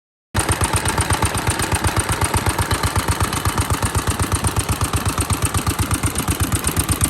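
Vintage Japanese single-cylinder stationary engine (hatsudōki), built around 1960 in Fukuyama, running steadily with even exhaust beats, about seven a second. The sound cuts in abruptly just after the start and cuts off abruptly at the end.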